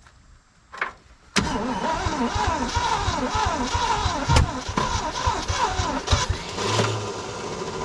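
A 1967 Ford F100's FE big-block V8 cranking over on the starter from about a second and a half in, firing in a few sharp pops on gasoline dribbled into the carburetor without catching and running.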